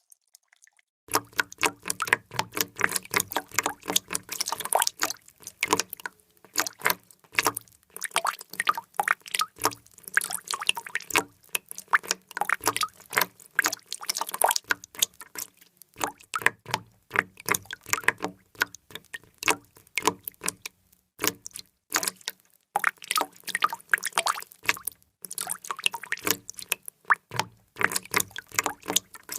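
Water drops falling in quick, irregular succession, many sharp plinks a second. They start about a second in after a brief silence and pause briefly now and then.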